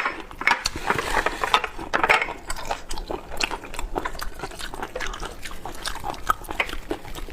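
Close-miked chewing and biting of cooked squid: a run of wet clicks and smacks at an uneven pace.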